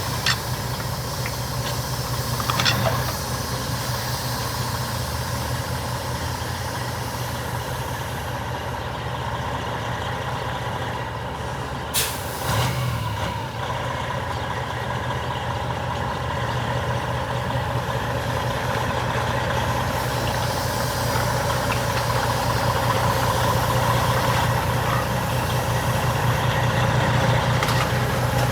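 Tractor-trailer's diesel engine running steadily at low speed, growing a little louder toward the end, with a brief sharp sound about twelve seconds in.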